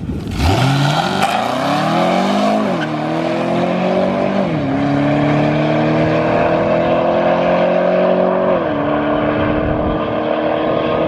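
A race vehicle's engine launching and accelerating hard. The pitch climbs quickly, then drops sharply at each of three upshifts, and each time it climbs again more slowly. The sound loses its sharpness as the vehicle pulls away.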